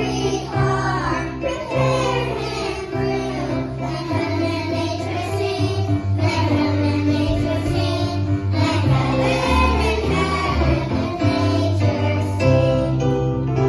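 Music with children singing over a keyboard and bass accompaniment.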